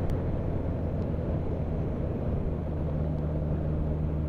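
Motorcycle engine running steadily, with wind and road noise, heard from the riding bike.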